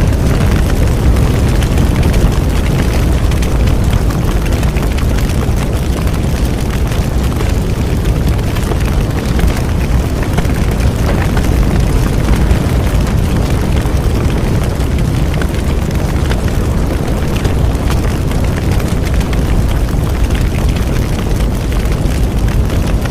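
Bonfire burning: a loud, steady low roar of flames with scattered faint crackles.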